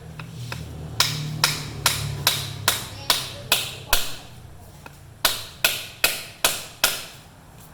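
Hammer blows driving the blade shaft out of a Blendtec blender jar's rusted, seized bearing: eight sharp, evenly spaced strikes, a short pause, then five more.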